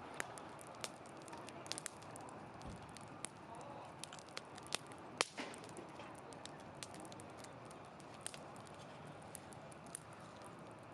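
Wood campfire burning in a fire pit: a steady rush of flame with irregular sharp crackles and pops, the loudest pop about five seconds in.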